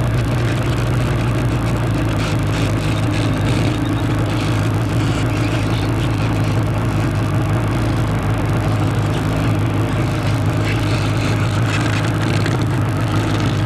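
Motorcycle engine running steadily, a constant low hum with an even rushing noise over it.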